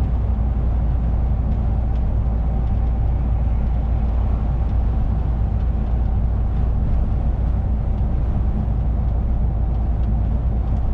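Lorry cab while driving: the truck's engine and road noise make a steady low drone, with a faint steady hum running through it.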